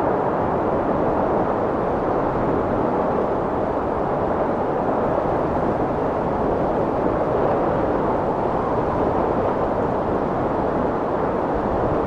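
Strong wind blowing steadily: a dense, even rushing noise with no gusts or breaks.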